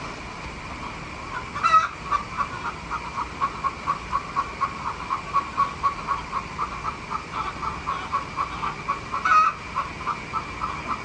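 Frogs calling in a steady rhythm, about four calls a second, over a steady high hum; a chicken calls out loudly twice, near the second second and again near the end.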